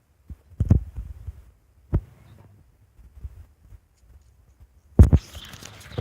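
Three dull thumps, about a second in, at two seconds and near five seconds (the last one doubled), over a low rumble of wind on the microphone.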